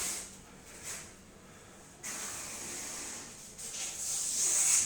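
A steady hiss like rushing air, starting suddenly about two seconds in and growing louder toward the end.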